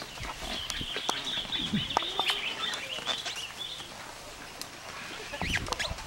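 A bird twittering in a warbling run for about three seconds, over scattered clicks and knocks.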